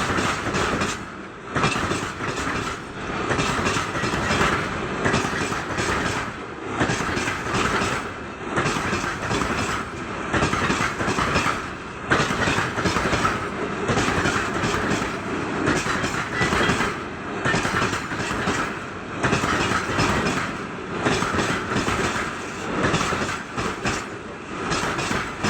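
Loaded freight wagons of a very heavy train rolling slowly past, the wheels clacking over rail joints in a steady repeating rhythm with a continuous rumble underneath.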